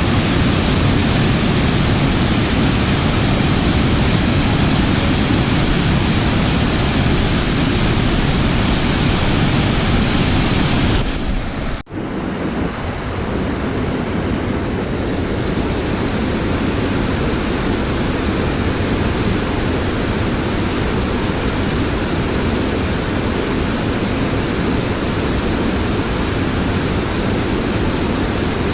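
Steady, loud rush of fast-flowing water. About twelve seconds in it drops out for an instant, then carries on a little duller before settling back.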